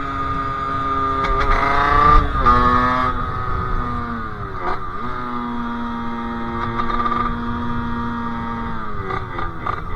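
Sherco 50cc two-stroke engine with a KRM expansion exhaust and Polini CP 17.5 carburettor, under way: the revs climb about a second in, drop back, dip again midway, hold steady for a few seconds and fall away near the end.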